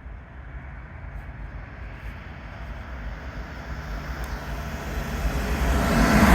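A train approaching through the station, its rumble growing steadily louder and loudest near the end.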